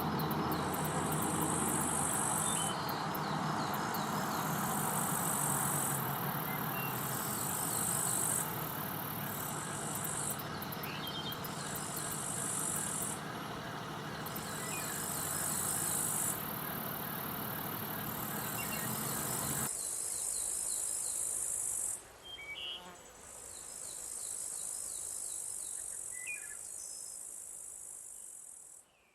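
Insects singing: high buzzing calls that switch on and off every one to three seconds, over a steady rushing background that cuts out about two-thirds of the way through while the insect calls carry on.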